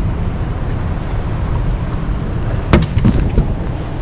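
Steady low rumble, with three sharp knocks in quick succession a little before the three-second mark.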